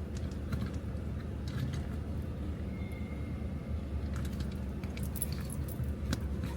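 Steady low rumble of a car running, with scattered small clicks and rattles.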